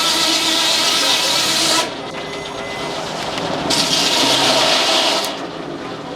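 Circular head saw of a Frick sawmill cutting through a log, a loud, rasping cut with a faint ringing tone. It eases off about two seconds in, cuts loud again for about a second and a half, then drops away near the end.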